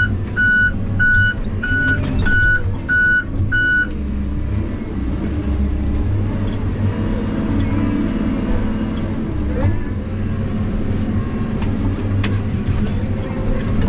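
Backup alarm of a diesel logging machine, beeping about twice a second, stops about four seconds in, and the machine's engine keeps running steadily after that.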